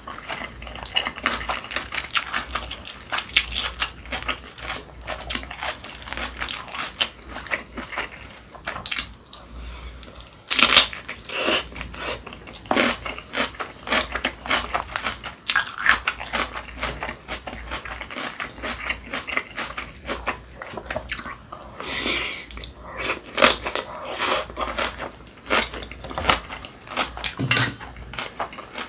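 Close-miked eating sounds of a person chewing spicy kimchi: a dense run of wet, crisp chewing and mouth smacks, louder in clusters about ten seconds in and again a little past twenty seconds.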